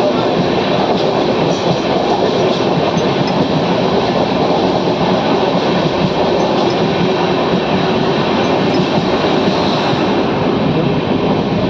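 Passenger train running past on the track: a steady, loud rumble of wheels on rails.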